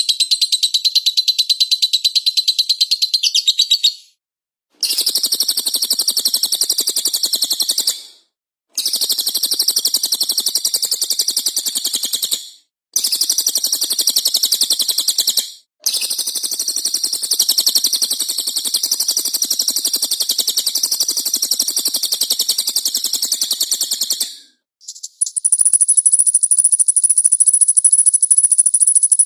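Recorded songbird song played for bird training: a fast, pulsed chattering trill in bursts of a few seconds separated by brief gaps, then near the end a different, higher-pitched steady trill.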